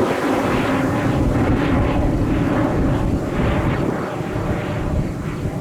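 Jet airliner engines, loud and steady, a dense rumble with no pauses.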